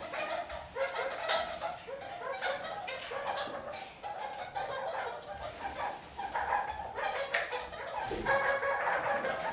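Red-crowned kakariki chattering, a steady run of short, repeated calls.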